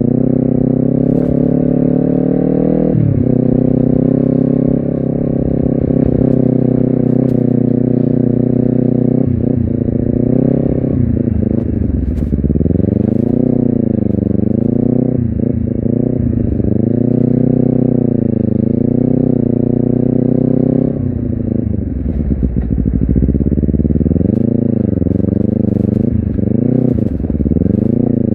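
Honda CBR250RR motorcycle engine and exhaust under way, the revs rising and falling again and again with throttle and gear changes. The revs drop sharply about three seconds in, and sink low for a couple of seconds about two-thirds of the way through before climbing again.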